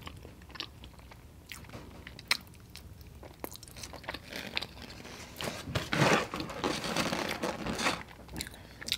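Close-miked chewing and mouth sounds of someone eating a fry: small scattered clicks at first, then a louder, denser stretch of chewing in the second half.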